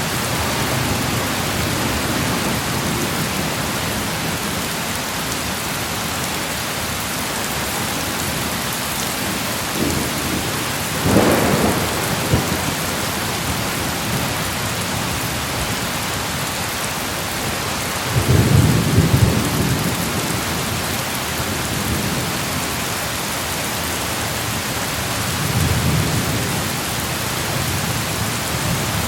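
Steady rain falling, with rumbles of thunder: a sharper roll about a third of the way in, the loudest, deepest rumble a little past the middle, and a fainter one near the end.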